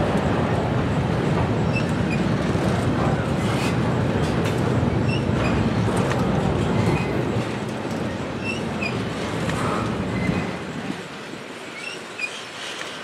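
Double-stack intermodal freight train rolling past close by: a steady rumble of steel wheels on the rails with short high wheel squeals scattered through it. The low rumble drops away about ten seconds in.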